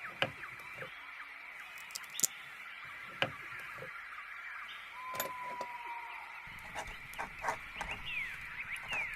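Ambience of small birds chirping in rapid short calls, mixed with scattered sharp clicks and taps and one long, slightly falling whistle about five seconds in.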